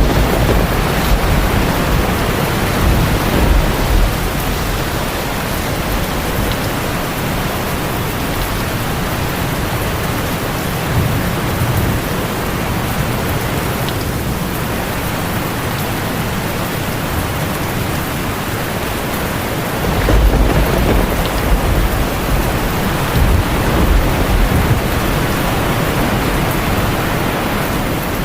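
Heavy rain drumming steadily on a tin roof, with low rolls of thunder rumbling near the start and again about two-thirds of the way through.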